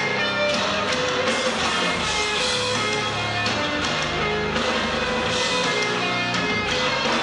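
Loud live rock played by a band, with distorted electric guitar chords sustained over bass and a steady wash of cymbals.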